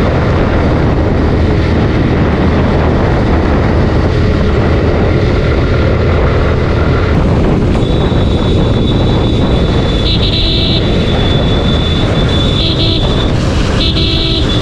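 Suzuki Gixxer 155's single-cylinder engine running at road speed under a heavy rush of wind on the microphone. About halfway through a high steady whine comes in and cuts in and out several times toward the end.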